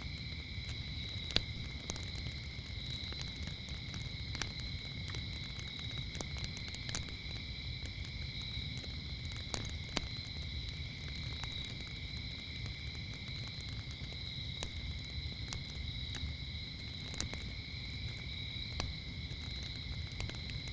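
Crickets chirping in a steady, continuous trill. Over it a wood fire crackles with scattered sharp pops, and a low rumble runs underneath.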